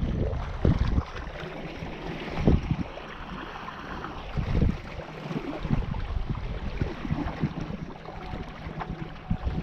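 Wind buffeting the microphone on a small sailboat, with water lapping and splashing against the hull; a few louder splashes stand out, and the wind drops after about a second.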